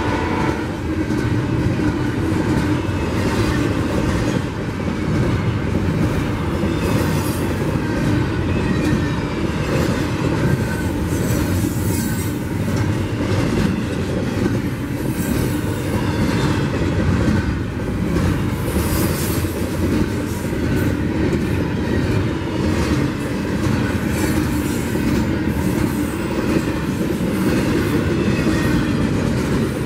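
Double-stack intermodal train's container-laden well cars rolling past close by: a steady rumble of steel wheels on rail with clicking over rail joints and brief high wheel squeals now and then.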